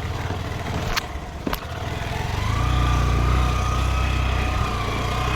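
A small two-wheeler engine running, picking up speed about two seconds in and then holding steady. Two sharp clicks come early.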